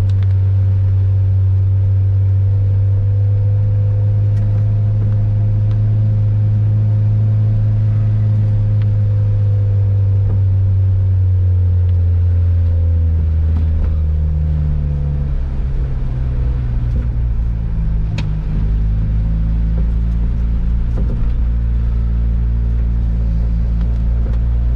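Ford Fiesta ST's engine heard from inside the cabin, a loud, steady low drone while driving, whose note drops and shifts about halfway through as the car slows, over steady tyre and road noise.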